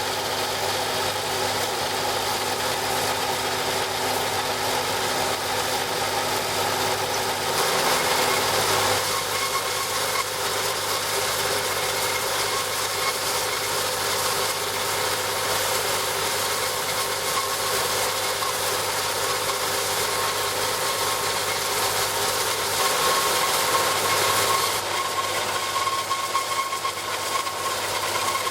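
Homemade wire rock saw running steadily, a constant engine-like hum with rattle. Its sound shifts about eight seconds in and again near the end.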